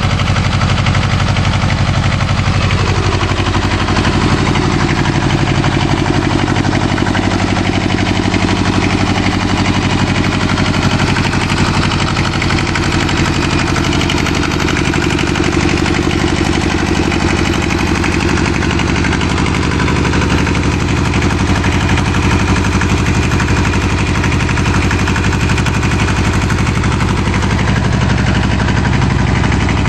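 Bolens G192 tractor's two-cylinder Isuzu diesel running. Its revs drop about three seconds in, then it runs steadily.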